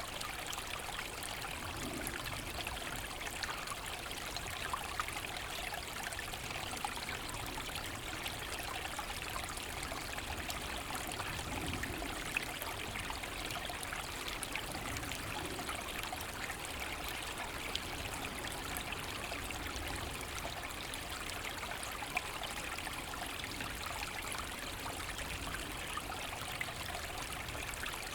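Forest brook running steadily over stones, a continuous babbling and trickling of water.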